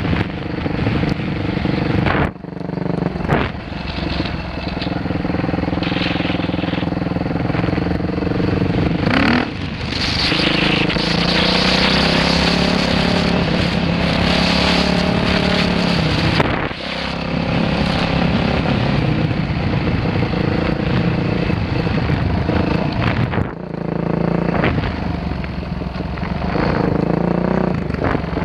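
Dirt bike engine running as it is ridden, revving up and easing off again, with short throttle-off dips about two seconds in and again near the end. The engine runs harder and louder for several seconds in the middle.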